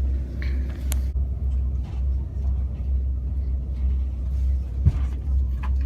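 Steady low rumble of a moving train, with a few sharp knocks and clicks; the loudest knock comes just before the end.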